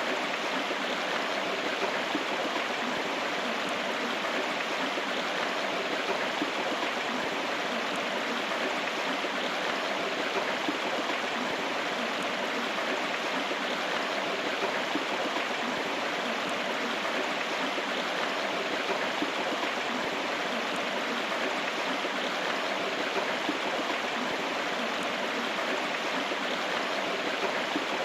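River water flowing steadily, an unbroken rushing sound.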